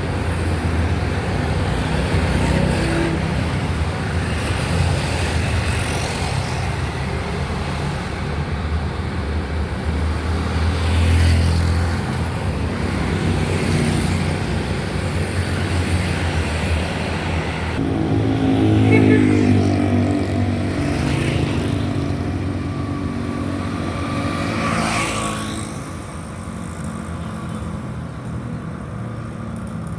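Road traffic going by: a steady rumble of vehicle engines and tyres, with several vehicles passing close. A heavy engine with a deep, pitched note passes about two-thirds of the way through, and the traffic gets quieter near the end.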